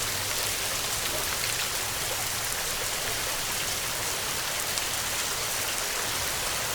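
Heavy rain falling steadily: a dense, even hiss of drops with no thunder.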